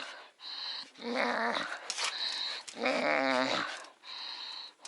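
Dog growling in rough play, two drawn-out wavering growls, the first about a second in and the second a little past the middle.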